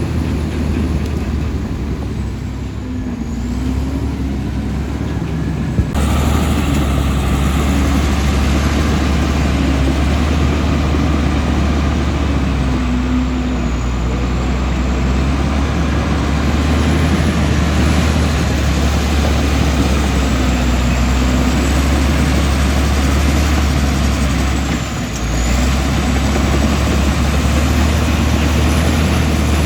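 Komatsu D65E bulldozer's diesel engine running steadily with a deep drone and pitch that rises and falls a little as it works. About six seconds in the sound becomes louder and harsher.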